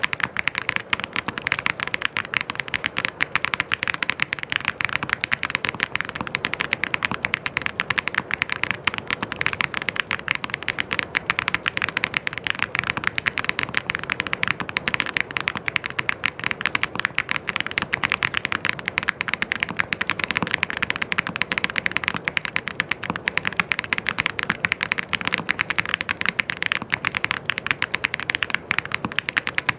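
Mechanical keyboard being typed on fast and without a break, keystrokes clacking many times a second.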